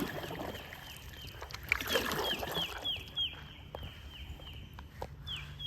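A high, rhythmic animal chirping, short falling chirps repeating two or three times a second, over water sounds from the canoe.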